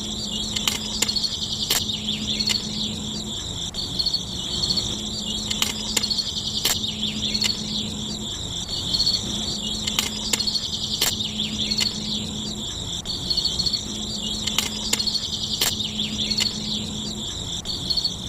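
Insects, most likely crickets, trilling steadily in a high, pulsing band, with scattered sharp clicks and a faint low hum that comes and goes.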